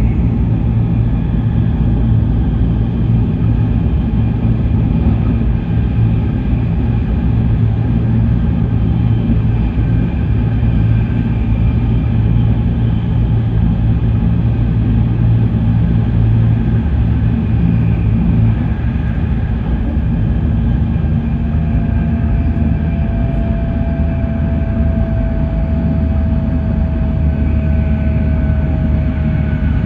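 Steady low rumble inside a high-speed E7 series Shinkansen car running at speed. About two-thirds of the way through, a faint whine joins it and slowly falls in pitch.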